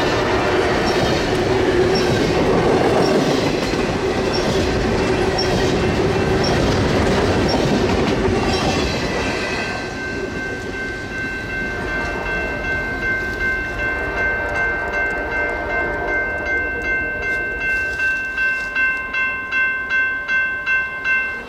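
A freight train rolling past, its wheels clicking over rail joints about once a second. About ten seconds in, the rumble drops and a ringing, pulsing bell-like tone joins it, repeating about twice a second until the end, most likely a grade-crossing warning bell.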